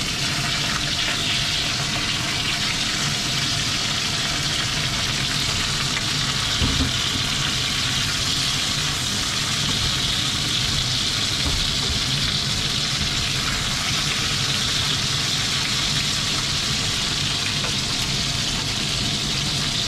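Chicken wings and smashed garlic frying in hot oil in a nonstick pan: a steady sizzle as a wooden spatula turns them, with one brief soft knock about seven seconds in.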